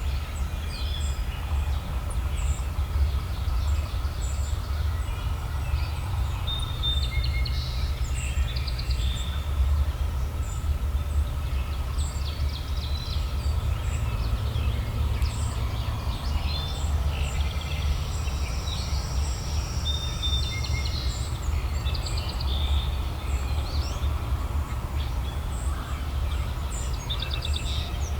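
Songbirds chirping and trilling in many short calls over a steady low rumble.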